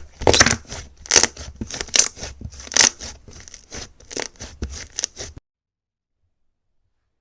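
Crunchy slime being squeezed and pressed by hand, with irregular crackling and crunching pops several times a second. It cuts off abruptly about five seconds in.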